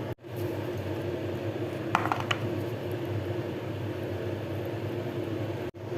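A steady mechanical hum, with a few light clinks about two seconds in.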